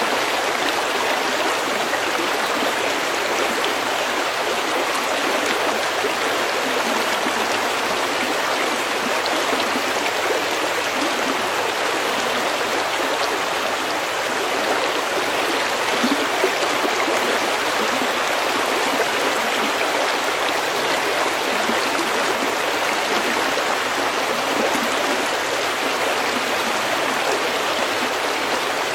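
Snowmelt stream running steadily over pebbles, an even rushing babble of water.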